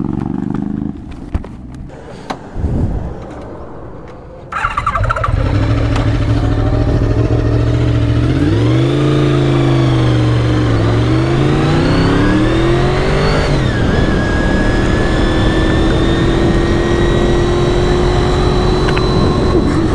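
A motorcycle engine bursts into running about four and a half seconds in, then runs steadily, its pitch dipping and climbing as it is revved before settling into a steady higher note.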